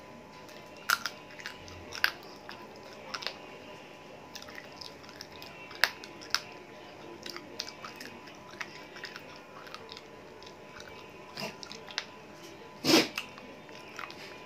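Close-up chewing of chicken eaten by hand: scattered wet mouth clicks and small crunches, with one louder burst near the end.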